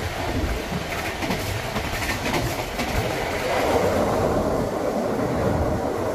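Passenger train running on the rails, heard from on board: a steady rumble with a few wheel clicks in the first half, growing a little louder about three and a half seconds in.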